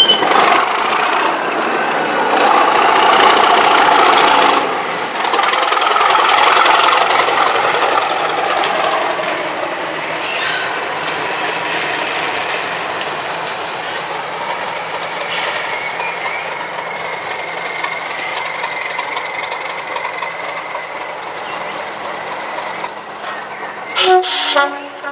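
Class 37 diesel locomotive's English Electric V12 engine working hard, loudest in the first eight seconds and then fading steadily as it draws away. Near the end comes a short, loud pitched sound.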